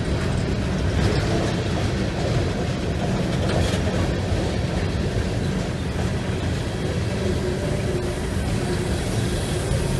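Freight train rolling past: a steady rumble of wheels on the rails.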